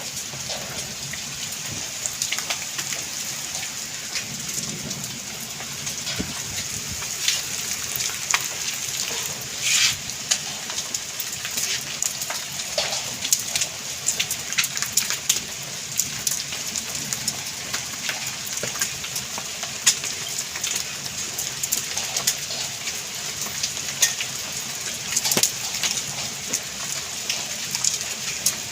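Heavy rain falling steadily, with many sharp, irregular taps of drops striking a hard surface.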